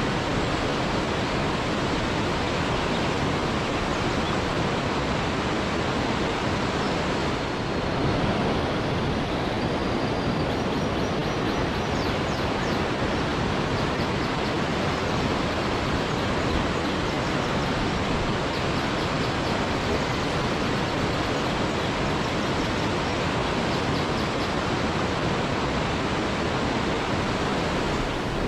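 Waterfall rushing in a steady, unbroken roar of water, with a few faint high chirps about ten seconds in.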